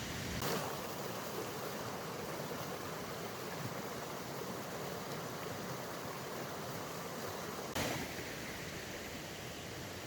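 A river rushing steadily. Two short sharp cracks cut through it, one about half a second in and one near the end.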